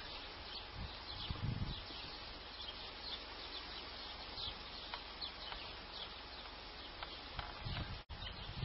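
Faint outdoor ambience: a steady hiss with small birds chirping briefly here and there. The sound cuts out for an instant near the end.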